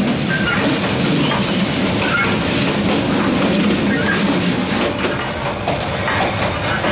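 Passenger train running, heard from the open gap between two carriages: a loud, steady rattle and rumble of wheels and couplings on the rails, with brief high metallic squeaks here and there.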